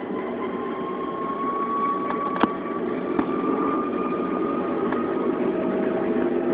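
Airbus A330-200 jet engines heard from inside the cabin: a steady rumble with a whine that slowly rises in pitch and grows gradually louder as thrust builds for takeoff. A single sharp knock comes about two and a half seconds in.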